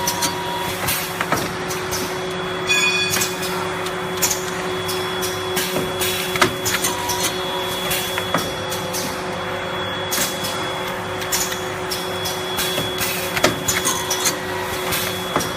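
Automatic paper blister packing machine running: a steady mechanical hum with a faint high whine that comes and goes, and a continual irregular clatter of clicks and knocks from its moving parts.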